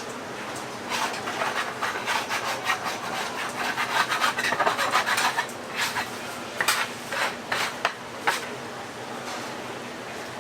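Rough rubbing and scraping strokes, many in quick succession and busiest about four to five seconds in, then a few separate scrapes until near the end, over a steady low hum.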